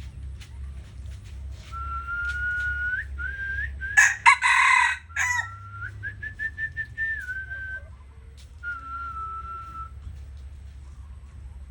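Rooster crowing. The loudest, harsh crow comes about four seconds in, among several thinner, steady high-pitched drawn-out calls.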